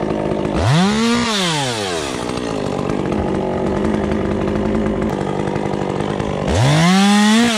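Two-stroke chainsaw revved up twice, its pitch rising quickly to full throttle and falling back each time. A steady engine drone runs underneath.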